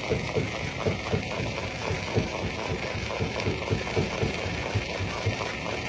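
Stone crusher running, with rocks knocking and clattering irregularly, several knocks a second, over a steady machine rumble.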